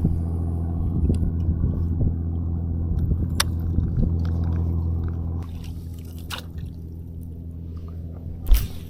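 Jet ski engine idling with a steady low hum, dropping in level about five seconds in. Water sloshes and there are a few short knocks, with a louder thump near the end.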